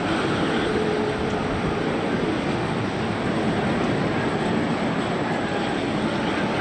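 Boeing 747-400 jet engines running, a steady even noise that holds level throughout.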